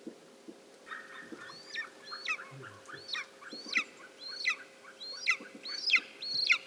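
White-tailed eagle screaming: a series of sharp yelping calls, each falling in pitch, repeated about once or twice a second and growing louder.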